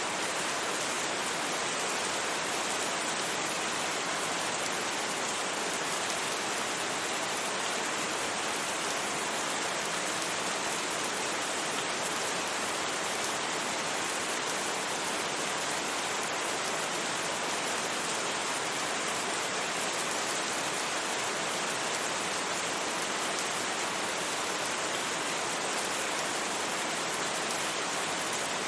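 Steady, even rain falling without thunder, a continuous hiss with no single drops standing out.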